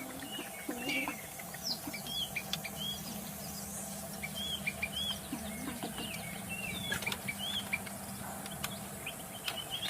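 White-rumped shama singing: a loose string of short, arched whistled chirps, some repeated in quick pairs, over a steady low hum.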